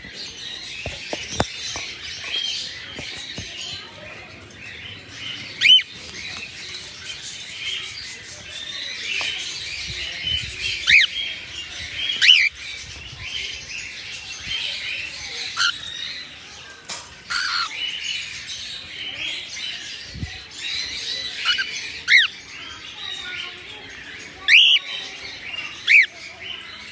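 Albino cockatiels chirping continuously, with a handful of louder, sharp rising calls scattered throughout.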